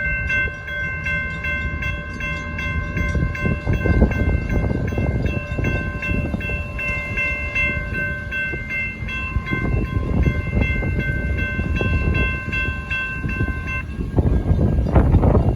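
Railroad grade-crossing warning bell ringing in a rapid, even repeated ding over steady low background noise. The bell signals that the crossing is activated for an approaching train, and it stops about a second before the end.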